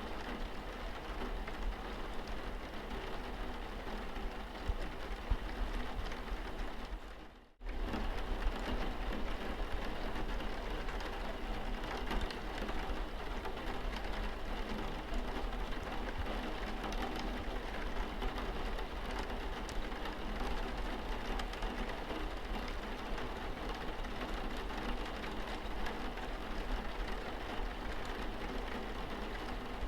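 Rain pattering steadily on a car's windscreen, an even hiss of drops with a brief break about seven and a half seconds in.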